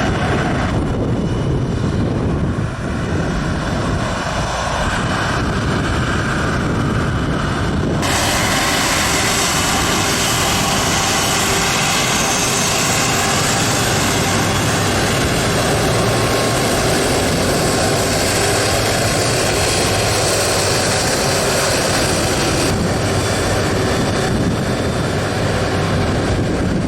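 Jet airliner engines running with a steady, loud rushing noise. The sound turns suddenly brighter about 8 seconds in and drops back about 23 seconds in.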